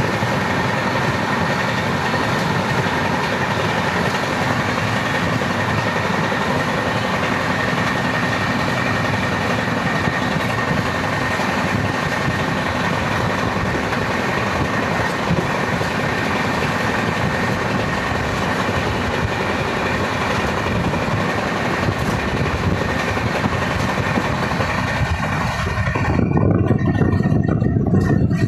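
Running noise of a moving train heard from on board: a loud, steady rumble and rush. Near the end the high hiss fades and a deeper rumble grows louder.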